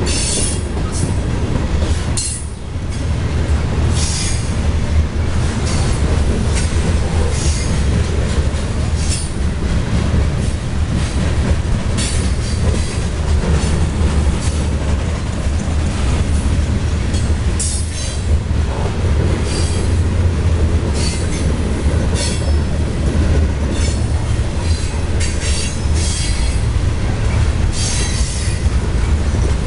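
Freight train of covered hopper cars rolling past close by: a steady, loud rumble of steel wheels on rail with short high-pitched wheel squeals every second or two.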